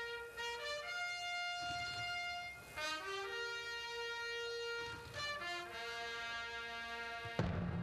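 Symphony orchestra brass playing a slow fanfare of long held chords, with short breaks between phrases. A loud low drum roll, likely timpani, comes in suddenly near the end.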